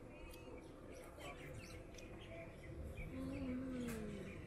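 Small birds chirping repeatedly in short high notes. Near the end a person gives a long falling "mmm" of enjoyment while tasting food.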